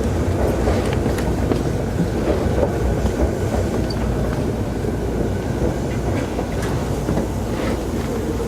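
Running sound heard inside a Keikyu 2000 series motor car: a steady rumble of the wheels on the rails, with a few faint clicks.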